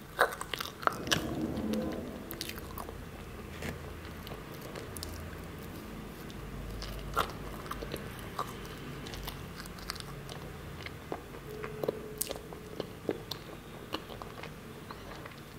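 Biting and chewing soft matcha sponge roll cake with a cream filling: wet mouth smacks and clicks, busiest in the first two seconds as a bite is taken, then scattered smacks while chewing.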